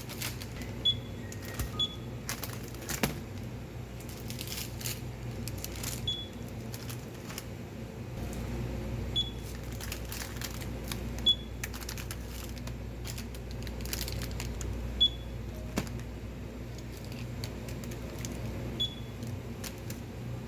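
Self-service ordering kiosk giving short high beeps as its touchscreen buttons are pressed, about eight in twenty seconds, among scattered clicks and taps over a steady low hum.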